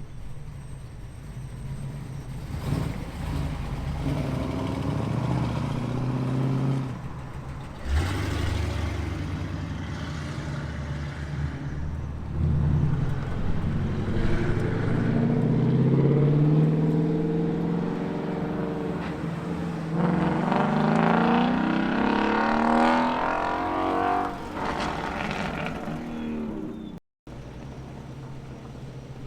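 American muscle car exhausts as cars drive out one after another: a low rumble, then engines revving up in rising pitch as cars accelerate away, twice in the latter half.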